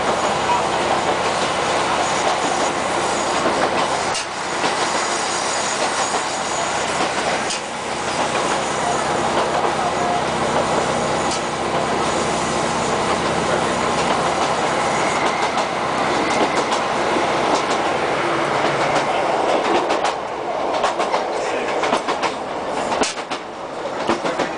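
Inside a ScotRail Class 156 diesel multiple unit under way: underfloor diesel engine hum, with wheels running on the rails and rail-joint clicks. The low hum falls away about three quarters of the way through, leaving mostly wheel and track noise.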